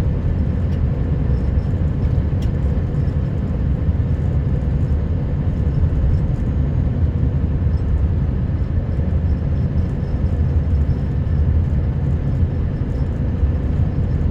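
Scania R560 truck's V8 diesel engine running steadily as the truck drives along: a constant low drone with a faint steady hum above it.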